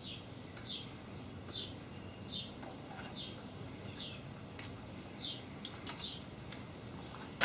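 A short, high chirp repeating evenly about every three-quarters of a second, like a small bird calling. Under it, a few faint clicks of hand work on the mill's saddle, with one sharper click at the very end.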